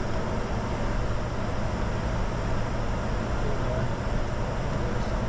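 Steady cockpit noise of a Bombardier Challenger 605 business jet: an even rush of engine and airflow noise that holds at one level without change.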